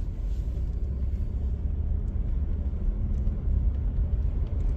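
Vehicle driving slowly: a steady low rumble of engine and tyres, with no change in pace.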